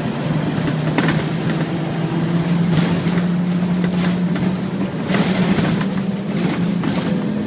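Scania N230UD Omnicity double-decker bus engine running with a steady drone, with several short knocks or rattles on top.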